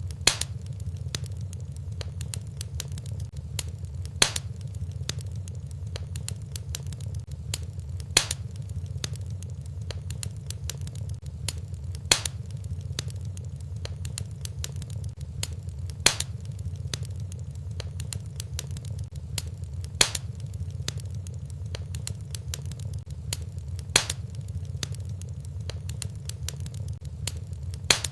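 Wood fire in a fireplace crackling over a steady low rumble, with a sharp louder pop about every four seconds. The pops come at evenly repeating intervals, the sign of a short looped recording.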